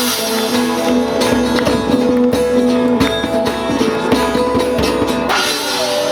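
Live folk-rock band playing the closing bars of a song: guitar chords over percussion with frequent strikes, ending in a final crash about five seconds in that is left ringing.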